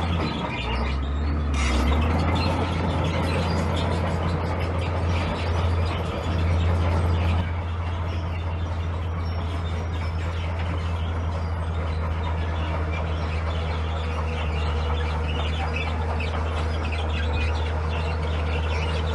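Diesel engine of a heavy earthmoving machine running steadily with a deep low hum, easing off slightly about seven seconds in.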